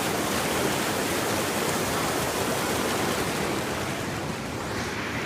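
Creek water rushing steadily over rocks in a small cascade, a constant hiss of flowing water, a little softer near the end.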